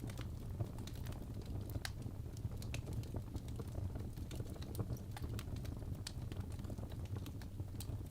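Wood fire in a fireplace crackling: irregular sharp pops and snaps, several a second, over a steady low rumble of the burning.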